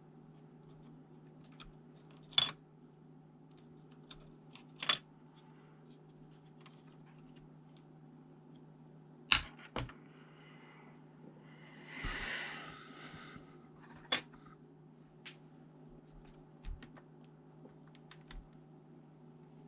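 Hands working on a ThinkPad T400 laptop's parts and tools: scattered sharp plastic or metal clicks and taps, about half a dozen, with a brief scraping rustle about twelve seconds in, over a steady low hum.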